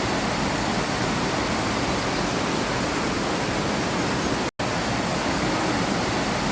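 Steady, loud rush of water from a creek or small waterfall, even and unbroken apart from a brief dropout about four and a half seconds in.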